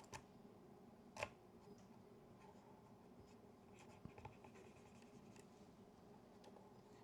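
Quiet scratchy rubbing and a few light clicks from hands cleaning and handling a small metal film camera, with one sharper click about a second in.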